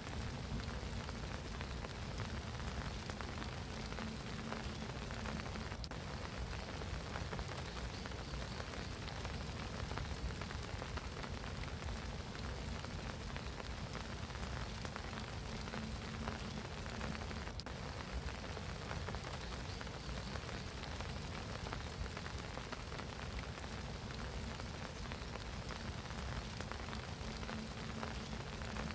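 Spring rain falling steadily on a pond, an even hiss of drops on water, with a couple of sharper single drips now and then.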